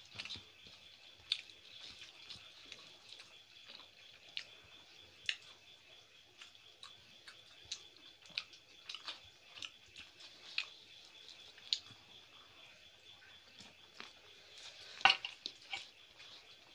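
Close-up eating sounds: chewing and wet mouth smacks, with soft irregular clicks of fingers mixing rice and curry on plates. A short flurry of louder smacks comes near the end.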